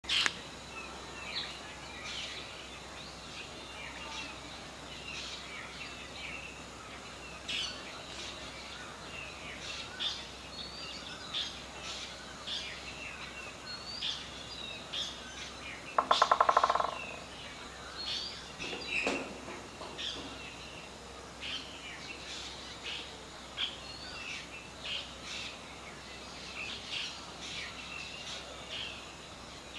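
Wild birds chirping and calling, with many short high chirps scattered throughout over steady outdoor background noise. About halfway through, one louder pitched sound lasting under a second stands out.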